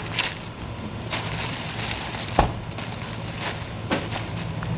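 A vehicle engine idling with a steady low hum, with several short sharp clicks and knocks over it.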